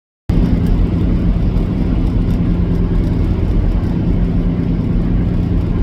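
Steady, loud engine and road drone of a semi truck under way, with a low hum, cutting in suddenly after a moment of dead silence.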